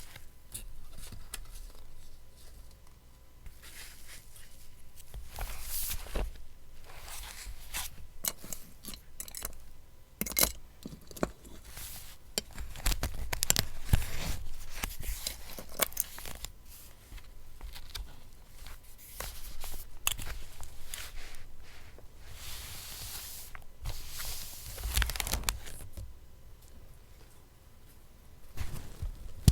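Paper being torn and handled close to the microphone: uneven rustling and tearing with many sharp little clicks, loudest a little before the middle and again near the end.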